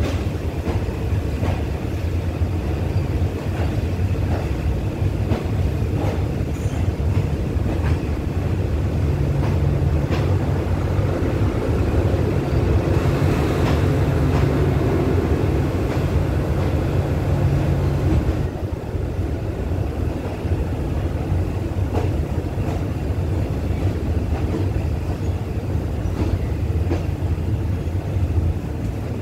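Locomotive-hauled passenger train moving slowly out of the station, heard from inside an open-window carriage: a steady low engine drone with occasional sharp clicks from the running gear. From about nine seconds in a deeper, louder engine note joins, and it drops away suddenly at about eighteen seconds.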